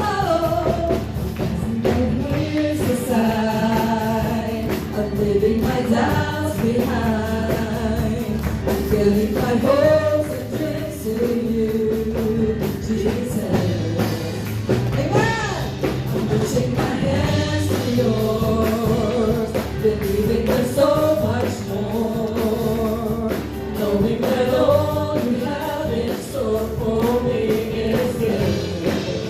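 Worship band playing a song with singers, several voices singing the melody over steady accompaniment.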